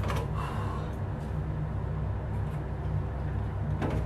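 A man breathing and sniffing through the burn of a superhot chili pepper, with a sharp breath near the end, over a steady low electrical hum.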